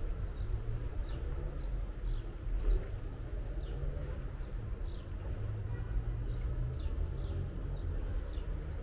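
Small birds chirping over and over in short, high notes, over a steady low rumble.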